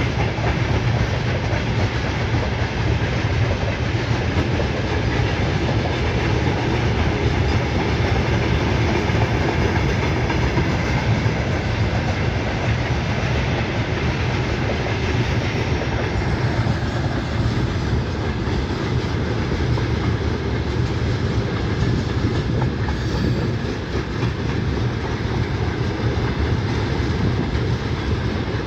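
Train running past on the rails, wagon wheels clattering over the rail joints in a steady rumble that grows a little duller about halfway through.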